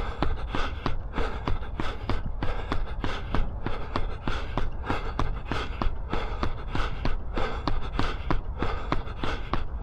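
A runner's footsteps striking the path at an even cadence of about three steps a second, with the runner's breathing, at threshold pace.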